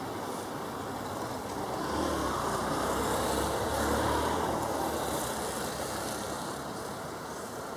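Turboprop aircraft passing on its landing approach: a rushing engine and air noise that swells to its loudest about four seconds in, then fades.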